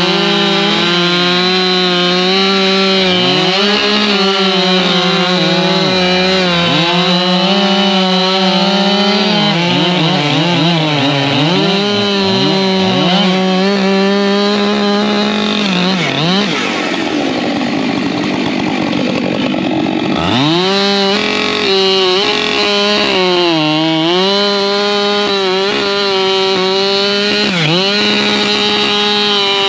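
Two Husqvarna 592 XP two-stroke chainsaws running at high throttle while bucking logs. Their pitch dips again and again as the chains load up in the cut, then climbs back as the saws free up.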